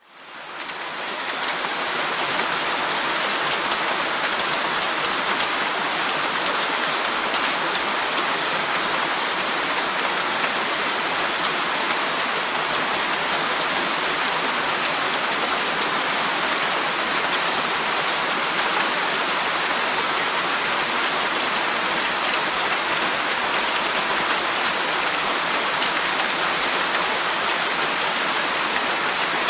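Steady, even rainfall, fading in over the first second and then holding constant.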